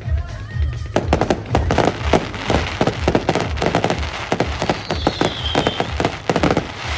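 Aerial fireworks crackling in a dense, rapid run of sharp pops that starts about a second in and stops at the end. A brief falling whistle comes through around the fifth second.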